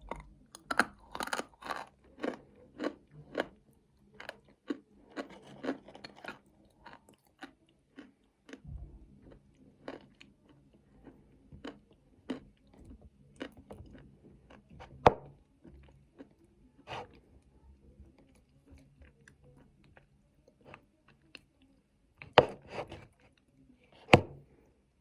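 Close-miked chewing of nuts in chocolate paste: quick, crisp crunches over the first several seconds, then sparser chewing with a few louder crunches later on.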